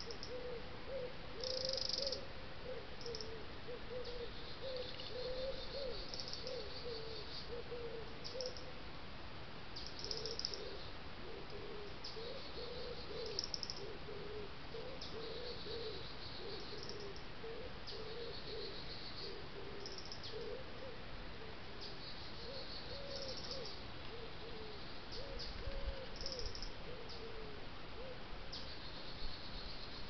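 Birdsong: a low cooing call repeated over and over in short phrases, with shorter high-pitched chirps every second or two.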